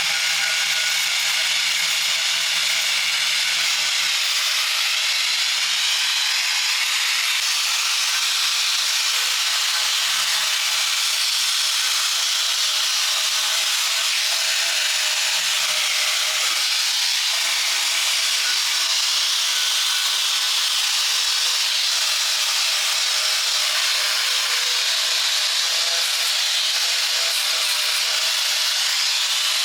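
A steady, unbroken hiss, loudest in the upper range, with faint steady tones beneath it.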